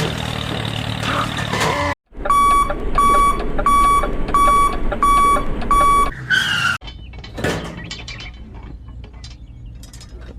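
Electronic beeper sounding six even beeps about two-thirds of a second apart, starting about two seconds in, over a steady low motor hum; after the beeps come a few light clicks and knocks.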